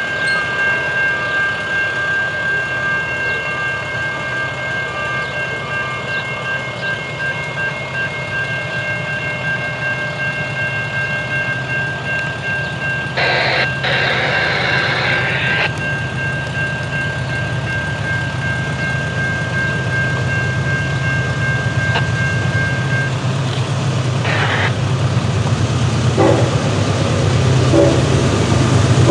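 A train running by with a steady low rumble. Over it a steady high-pitched ringing tone holds for most of the time and stops a little over twenty seconds in. A loud noisy burst lasts about two seconds around the middle, and a rhythmic clatter comes near the end.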